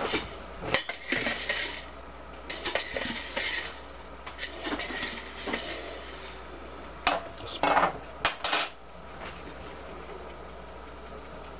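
Metal utensil scraping and clinking against a small metal camp cook pot in four short runs, with the sharpest clinks near the end, the kind of sound made when spooning and stirring in a pot.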